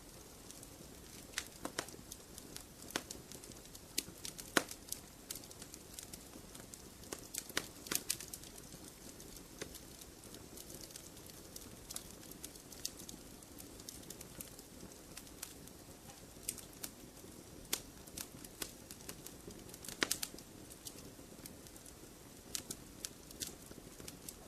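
Campfire burning: irregular sharp pops and crackles of burning wood over a low steady hiss, with a few louder pops about four and a half seconds in, around eight seconds, and near twenty seconds.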